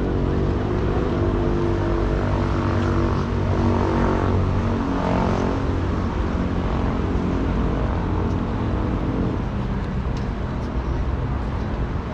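An engine running with a steady hum that drops away about nine seconds in.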